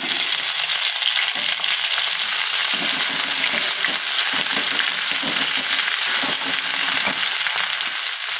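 Hot oil sizzling steadily as crushed garlic and green chillies fry with browned onions, the tadka being fried, while a metal spatula stirs through the pan with light scraping knocks.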